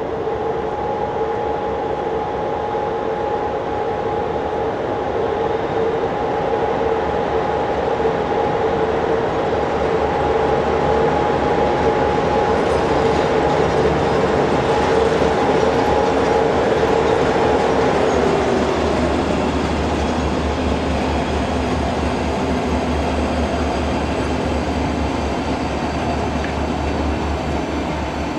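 Railway locomotives shunting past at close range, with a steady machine whine that drops in pitch about two-thirds of the way through, over a low hum and the rumble of the running gear. The sound grows louder towards the middle and eases off later.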